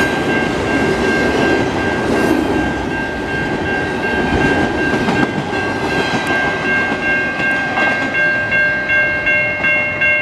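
Freight train of double-stack container cars rolling past, its wheels rumbling and clattering on the rail, fading as the end of the train goes by. Under it a railroad grade-crossing bell rings. Its regular strikes, about two and a half a second, stand out clearly over the last few seconds.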